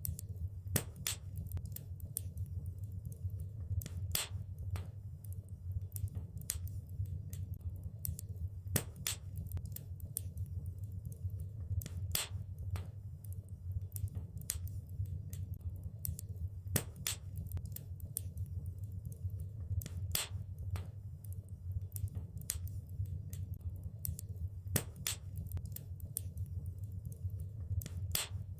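Wood fire crackling in a fireplace: irregular sharp pops and snaps, a few a second, over a steady low rushing of the flames.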